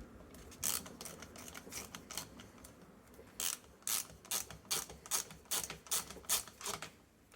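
Old, worn hand socket ratchet clicking as it tightens the small nuts that clamp a string trimmer's carburettor and air-filter housing. Scattered clicks at first, then louder clicking strokes from about halfway through.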